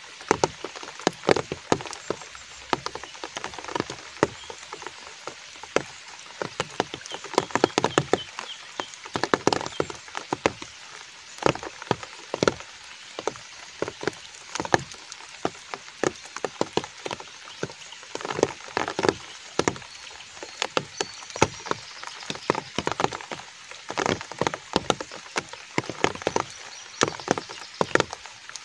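Rain falling: many close drops tapping irregularly, several a second, over a steady hiss.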